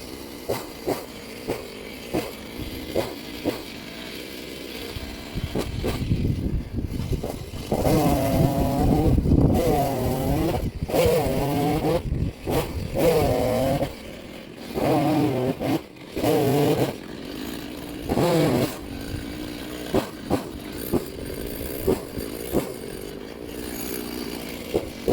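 Two-stroke chainsaw idling with short regular pulses, then opened up to full throttle in several bursts of a few seconds each, the pitch dipping and recovering as it cuts firewood with a freshly sharpened chain.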